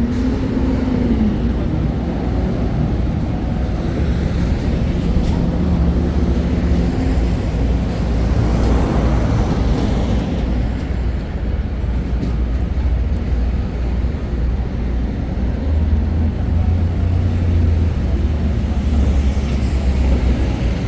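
Loud, steady low rumble of city background noise, with no single event standing out.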